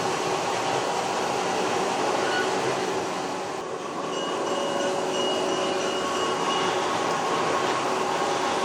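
H0-scale model train running on the layout: a steady rolling noise with faint steady tones, dipping briefly about halfway through.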